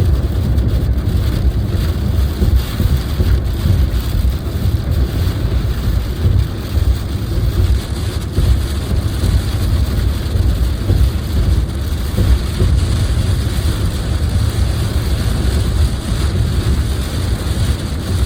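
Steady low road rumble and tyre noise of a moving car heard from inside the cabin, with the hiss of wet tyres and light rain on the car.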